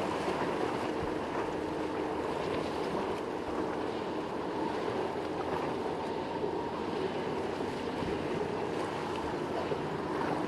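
Boat engines running steadily through rough inlet water, mixed with the wash of waves and wind noise.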